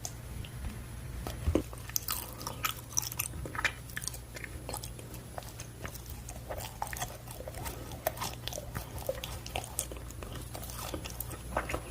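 Close-up chewing and biting of a blueberry baekseolgi, a Korean steamed rice cake gone a little dry and firm. Soft mouth clicks and smacks come at an irregular pace.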